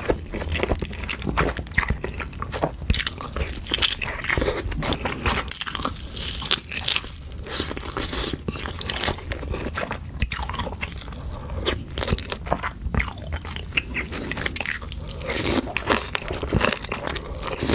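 A person chewing and biting into seafood, with dense, irregular crunching and crackling.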